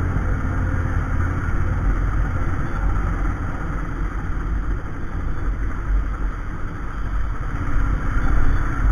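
Royal Enfield single-cylinder motorcycle engine running steadily on the move, with a deep, even low-end throb under a steady rush of noise.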